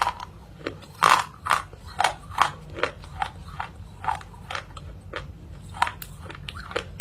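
Close-up crunching as someone bites and chews a hard, crunchy food, with sharp crunches coming about twice a second, the loudest in the first half.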